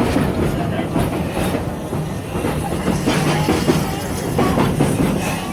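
Amusement park train rolling along its track, heard from on board: a steady rumble and rattle of the cars, with wheels clicking over the rail joints.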